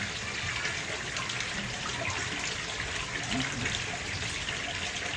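Steady rushing hiss, like running water, holding at an even level throughout.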